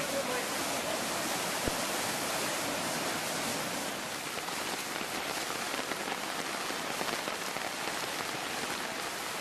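Steady, even rush of water, heavy rain or flowing floodwater, with a single short click a little under two seconds in.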